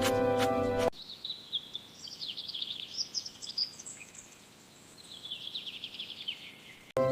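Small birds singing: quick, high chirps and trills, with a short lull midway and then a falling run of chirps. Background music plays at the very start and comes back in near the end.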